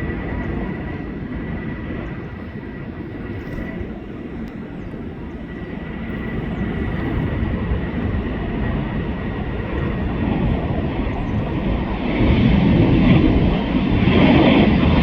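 Airbus A330-300 twin-engine jet airliner taking off, its engines at takeoff power making a steady rumble. A thin high whine fades over the first few seconds, and the sound grows louder near the end.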